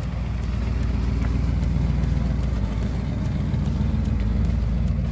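Oldsmobile Cutlass engine idling with a steady low rumble while the car coasts slowly.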